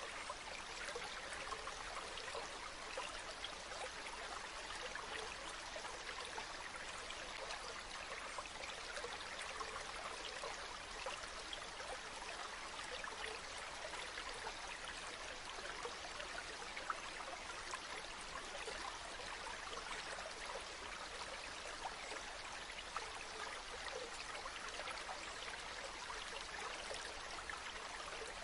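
Running water from a stream or small waterfall, a steady rush with many small splashes and trickles running through it.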